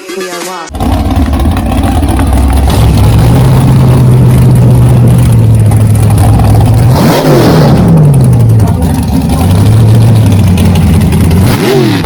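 Big drag-built hot rod engine idling with a loud, lumpy steady note. It is revved hard about seven seconds in, the pitch shooting up and dropping back, and blipped again near the end.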